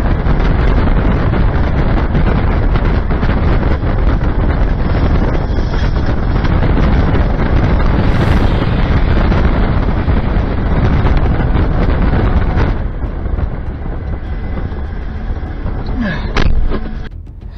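Violent storm wind blowing hard over the microphone: a dense, rumbling noise that eases somewhat about thirteen seconds in.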